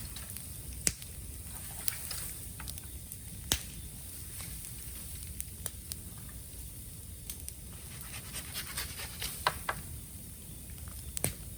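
Bamboo bonfire burning: the flames give a steady low rumble, broken by scattered sharp pops and crackles from the burning bamboo.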